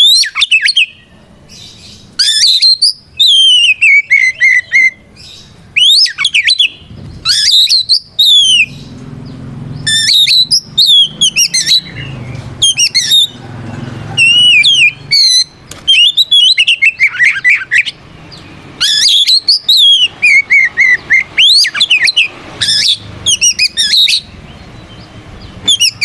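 Magpie-robin in loud, full song: phrases of clear whistles, falling slurs and fast trills, one after another with short pauses between them. This is the challenging song that kept birds use to call out rivals.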